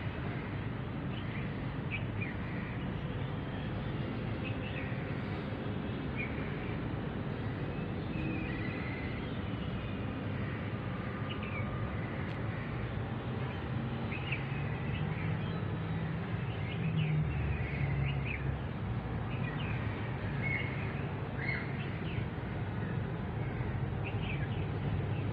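Birds chirping in short, scattered calls over a steady low rumble of background noise.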